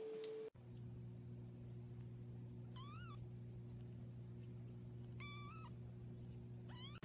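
A domestic cat meowing three times, short rising-and-falling meows a couple of seconds apart, over a steady low hum. A steady single tone cuts off about half a second in.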